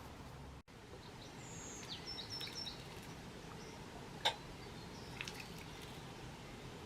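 Outdoor ambience with a steady hiss and a few short, high songbird chirps a second or two in. One sharp click about four seconds in is the loudest sound.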